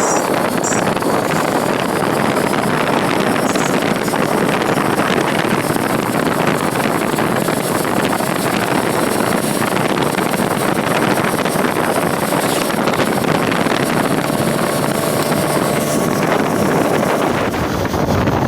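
Steady rush of wind buffeting the microphone on a moving bike, with road and vehicle noise mixed in.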